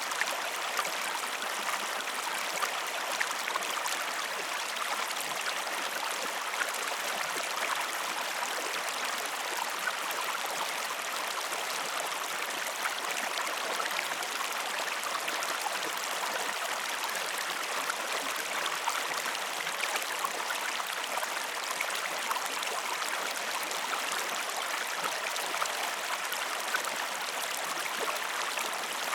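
A flowing stream: a steady rush of running water, with small splashes ticking through it.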